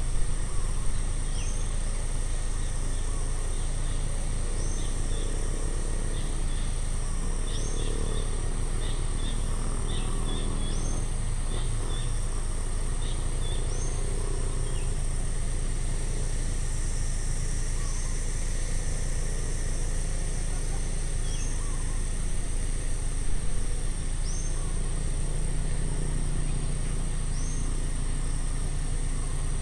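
Outdoor ambience: a steady high insect drone, with a bird repeating a short rising call every couple of seconds and softer chirps in the first half, over a steady low rumble.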